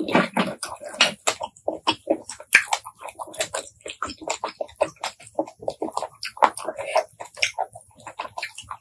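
Close-miked wet chewing and mouth sounds of eating shellfish: a dense, irregular run of sharp wet clicks and smacks.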